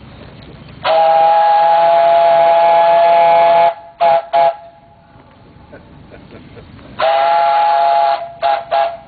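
Steam whistle on a Keck Gonnerman steam traction engine sounding a two-note chord. It gives a long blast of about three seconds, then two short toots, and the same pattern comes again a few seconds later.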